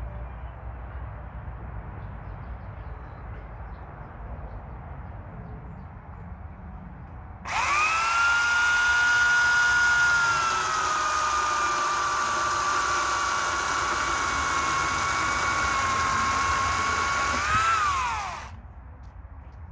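Electric saw for firewood starting up about seven seconds in with a high, steady motor whine; its pitch sags as it takes the load of a cut, then rises briefly before it is switched off and winds down about a second later.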